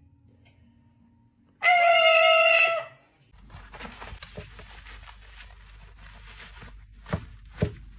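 A parrot gives one loud, held, even-pitched call lasting about a second, about a second and a half in. A quieter stretch of noise follows, with two sharp knocks near the end.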